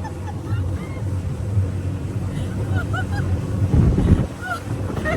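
A dinghy's 25 hp Yamaha outboard running at speed: a steady low drone under wind and water rush, with a couple of thumps about four seconds in.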